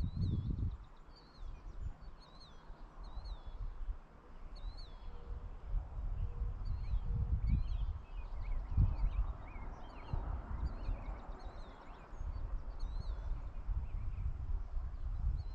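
Rural evening ambience: small songbirds chirping over and over in short, high, downward-sweeping notes, over an uneven low rumble.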